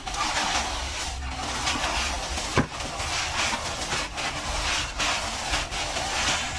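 Trowel scraping across plaster in repeated, irregular strokes, with one sharp knock about two and a half seconds in.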